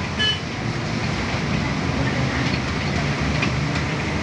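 Steady rumbling running noise of a moving train, with a brief high-pitched tone about a quarter of a second in.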